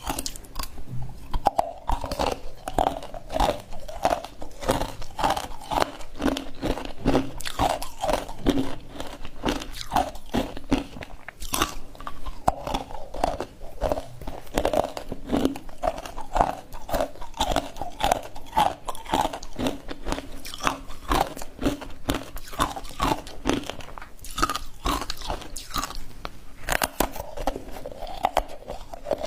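Crunchy ice being bitten and chewed close to the microphone, a dense, irregular run of crunches and cracks without a break.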